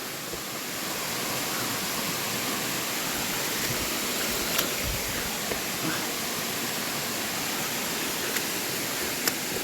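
Steady rush of falling water from the cascades of Erawan Falls, with a couple of faint clicks.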